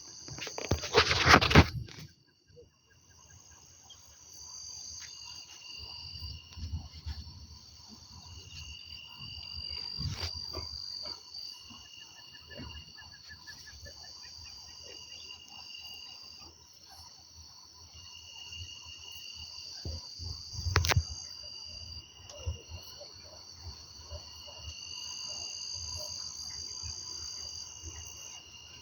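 Insects chirring steadily in several high tones, one of them pulsing on and off about once a second. A loud crack comes in the first two seconds, and a low thump about 21 seconds in.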